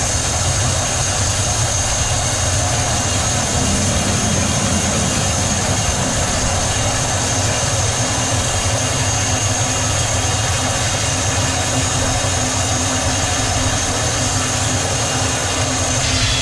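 Multi-blade sawmill machinery running steadily: a loud, even mechanical noise with a deep rumble and a steady high whine.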